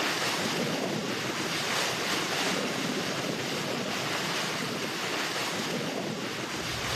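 Steady rush of water along the hull and wind from a motor yacht running at about 13 knots.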